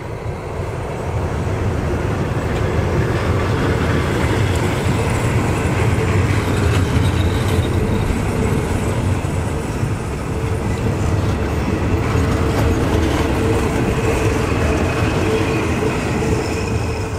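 Passenger coaches of a departing diesel-hauled train rolling past close by, picking up speed: steady rumble and clatter of steel wheels over the rails, with a steady squeal from the wheels above it. It grows louder over the first couple of seconds, then holds.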